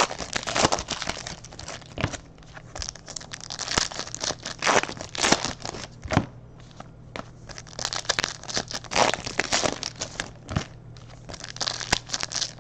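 Foil trading-card pack wrappers crinkling and tearing open, in irregular rustling bursts with sharp crackles, as the cards inside are handled.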